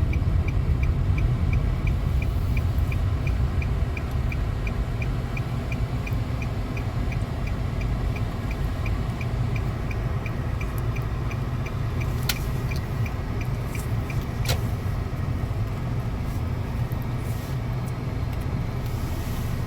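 Car cabin road noise: a steady low engine and tyre rumble while driving in traffic. A light, regular ticking runs at about three a second and stops about eleven seconds in, and two sharp clicks come a couple of seconds apart after it.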